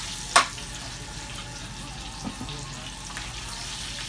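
Breaded chicken cutlets sizzling in a frying pan, a steady hiss. A sharp metal clink of the tongs against the pan comes about half a second in, and a softer knock a little after two seconds.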